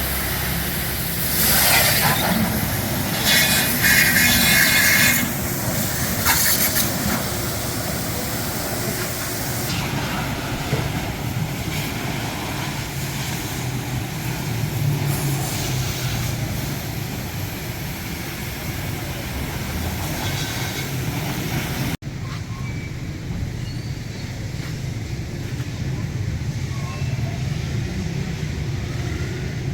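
Car-wash equipment at work: a steady low machine hum with loud bursts of hissing spray in the first few seconds, then continuing more evenly.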